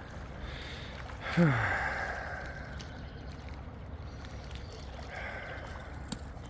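A short cry falling steeply in pitch about a second and a half in, followed by a brief hiss of breath or splashing, over a low steady outdoor background.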